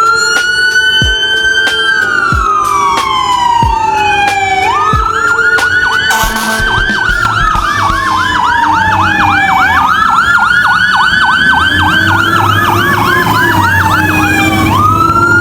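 Emergency vehicle siren, loud, going through slow rising-and-falling wails and joined about five seconds in by a fast repeating yelp. A heavy vehicle's engine rumbles underneath near the end.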